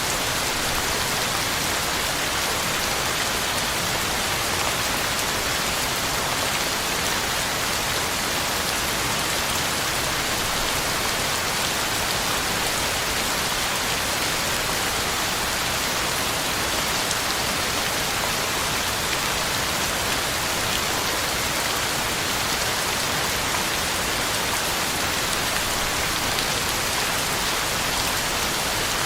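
Heavy rain falling steadily, a constant even hiss of drops on the ground and leaves.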